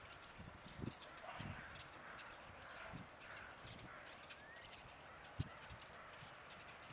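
Small birds chirping and twittering faintly, with a few soft, irregular low thumps and one sharper knock a little past the middle.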